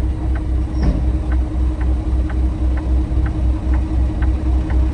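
Semi truck diesel engine idling, a steady low pulsing throb, with a light regular ticking about twice a second over it.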